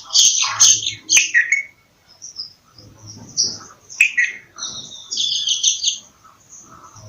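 Bulbul chirping: a cluster of sharp, loud calls in the first second and a half, a single call about four seconds in, and a quick chattering run about five seconds in.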